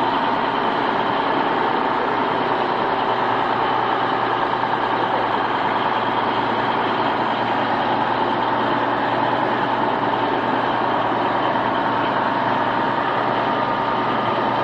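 Heavy vehicle engine running steadily, with a constant whine over it.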